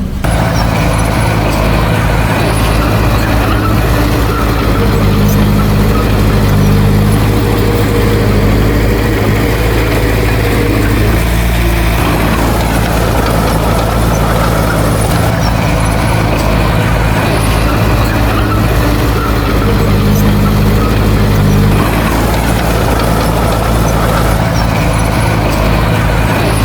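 Heavy diesel engine of earth-moving machinery running steadily. It works harder for a few seconds twice, about five seconds in and again around twenty seconds in.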